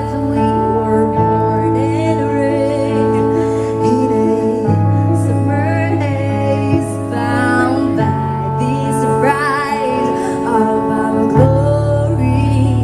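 A woman singing long held notes with vibrato over sustained accompaniment chords that change every few seconds, a live street performance of a pop ballad.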